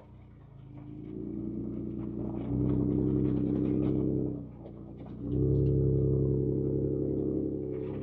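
2024 Ford Ranger Raptor's twin-turbo V6 heard from inside the cab, pulling under throttle in surges: it builds up, eases off about halfway, then picks up again and settles near the end. Scattered small knocks and rattles sit under it.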